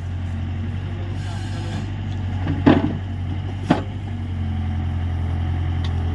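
Mahindra 605 tractor's diesel engine running steadily under the BULL V3 backhoe loader, with two sharp knocks about a second apart midway, the first louder.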